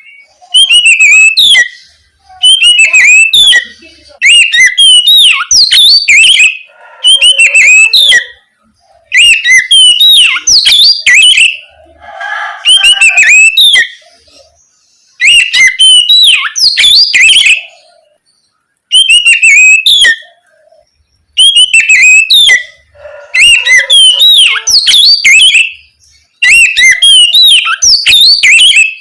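Oriental magpie-robin (kacer) singing loud, open 'ngeplong' song: rapid sweeping whistled notes in phrases of a second or two, broken by short pauses, used as a lure to get another magpie-robin to sing back.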